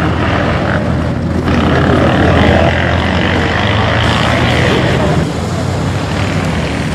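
Vehicle engines running with a steady low hum, with voices faintly in the background.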